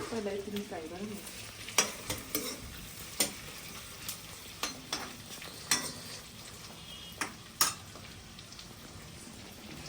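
Food sizzling in hot oil in a karai, with a stirring utensil scraping and knocking against the pan in sharp clicks every second or so.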